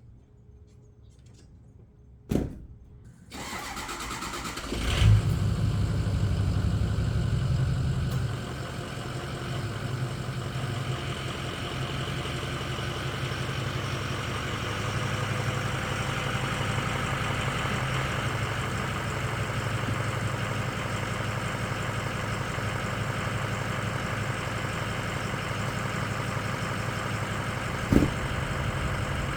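A sharp thump, then about five seconds in a vehicle engine starts. It runs at a raised idle for about three seconds, then settles to a steady idle. Another sharp thump comes near the end.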